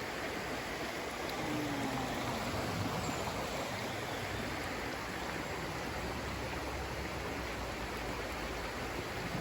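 A river running steadily, mixed with heavy rain falling.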